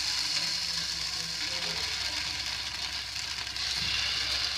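Poha batter sizzling steadily in hot oil in a pan as more batter is spooned onto it.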